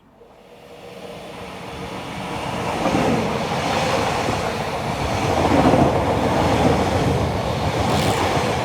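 Train approaching, growing louder over about three seconds, then running past loudly as a steady rail rumble.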